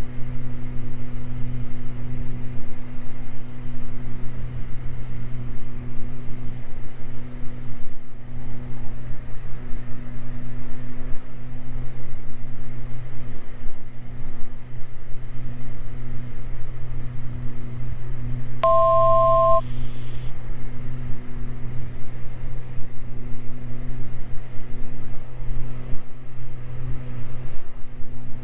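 The twin six-cylinder Continental IO-550 engines of a Beechcraft G58 Baron droning steadily in flight, heard in the cockpit. About two-thirds of the way through, a two-note electronic beep sounds for about a second.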